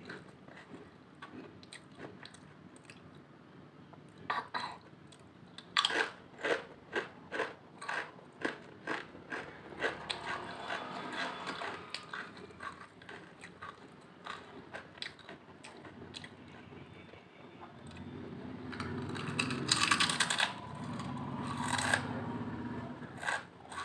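Potato chips being bitten and chewed close to the microphone, a crisp crunch about twice a second for several seconds, followed later by a longer, louder noisy stretch.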